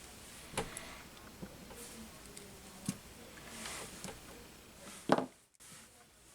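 Workbench handling sounds during a drone frame repair: scattered light clicks and taps of small tools and parts set down and picked up, with soft rustling between, and one sharper knock about five seconds in.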